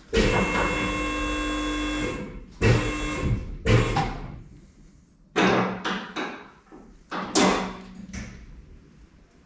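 Metal scraping and clunking as the engine is shifted forward past the subframe. A two-second ringing scrape opens, then shorter scrapes and knocks follow about every one to two seconds.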